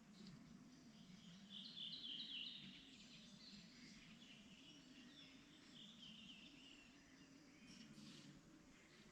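Faint spring birdsong: small birds singing in quick runs of high chirps, the loudest phrase about two seconds in, over a steady low rumble.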